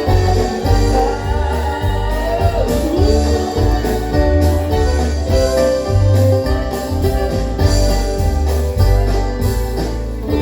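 Live bluegrass-style band music with singing over a steady thumping bass and drums.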